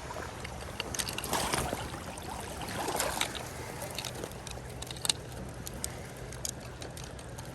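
Creek water running and splashing, with scattered sharp taps and two louder splashy bursts, about a second in and about three seconds in.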